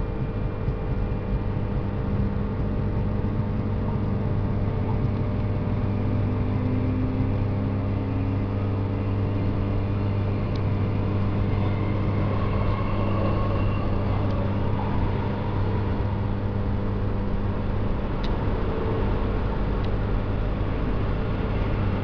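Cabin noise inside an electric suburban passenger train under way: a steady low hum and rumble from the motors and wheels on the rails. A faint whine rises in pitch several seconds in as the train gathers speed, and there are a couple of faint clicks.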